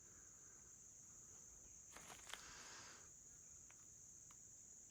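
Near silence with a faint, steady, high-pitched trill of crickets. About two seconds in there is a brief soft rustle with a few light clicks.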